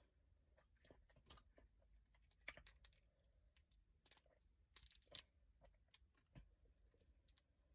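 Faint, scattered clicks and crackles of boiled crawfish shells being cracked and peeled while eating, spaced irregularly with short gaps between them.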